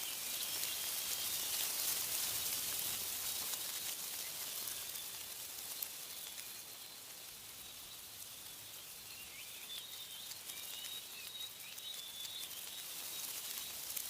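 Wind rustling through tree leaves, a hissing rush that swells over the first few seconds and then eases. Faint high bird chirps come near the start and again in the second half.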